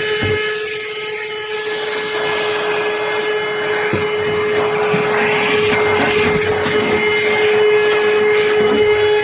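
Vacuum cleaner running steadily with a constant motor whine, cleaning out the vehicle's interior.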